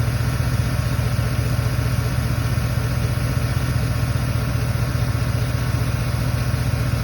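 Chevy truck's V8 engine, a GM replacement, idling steadily with an even low drone.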